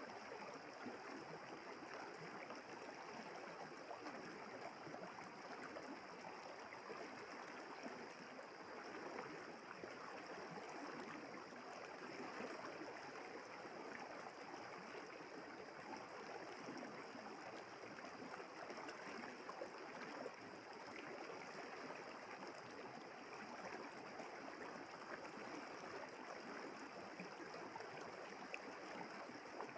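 River water flowing steadily, an even rushing babble with no breaks, with a thin steady high tone above it.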